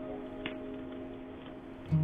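Soft acoustic guitar background music with sustained notes dying away, one small sharp click about half a second in, and the guitar coming back in loudly near the end.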